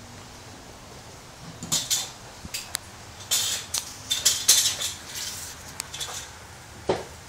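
Irregular light metallic clinks and rattles, a cluster of them from a second and a half in to about six seconds, then one duller knock near the end.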